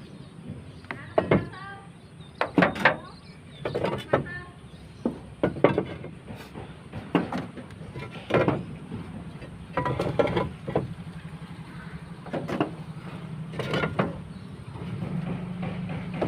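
Irregular knocks and clanks, roughly one a second, some with a short ringing tail, over a steady low hum.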